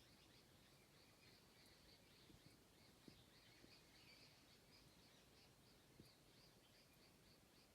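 Faint bird chirping: a steady run of short, high chirps, about three a second, with a few lower chirps mixed in.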